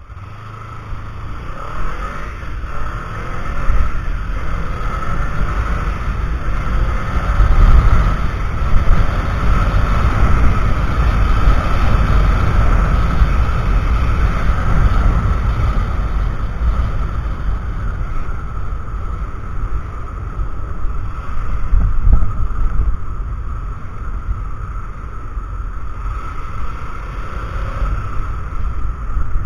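Wind buffeting an action camera's microphone on a moving motorcycle, over the running engine of a Kawasaki Ninja 300 parallel twin. It is a continuous, heavy rumble that grows louder over the first several seconds.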